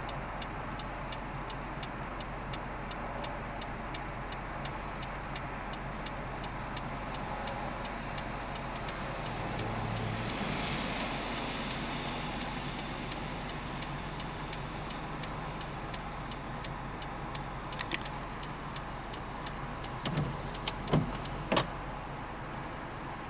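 Car engine idling as a steady low hum, with a faint fast regular ticking over it and a few sharp clicks near the end.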